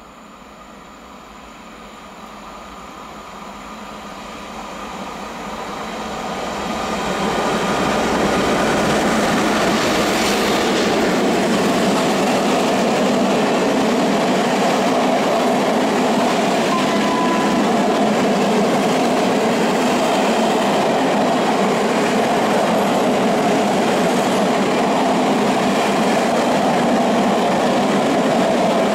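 A freight train hauled by an ET42 electric locomotive approaches and grows steadily louder over about eight seconds. Its flat wagons loaded with steel plates then roll past close by with a loud, steady rumble and clatter of wheels on rails.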